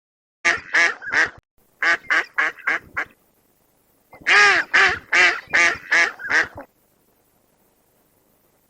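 A bird's short, harsh, quacking calls in three quick bouts of three to six calls each, the last bout the loudest, then silence for about the final two seconds.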